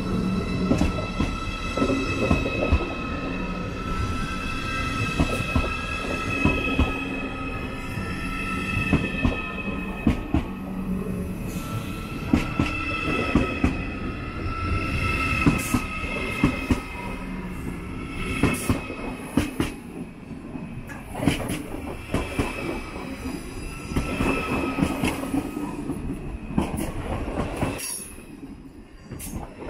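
Electric passenger train moving slowly along the track, its wheels squealing in a high tone that comes and goes, over a steady run of clicks and knocks from the wheels on the rails. It drops away near the end.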